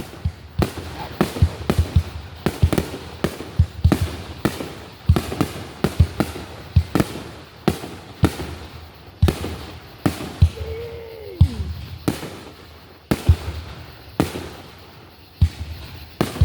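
Fireworks display: an irregular run of sharp bangs and booms, several a second at times, with short lulls between volleys.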